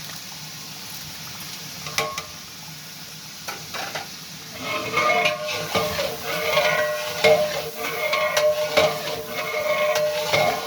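A large metal ladle stirring and scraping a deg of chicken frying in ghee, with sizzling and occasional knocks of the ladle on the pot. From about halfway the stirring gets busier and a steady metallic squeal comes in with it.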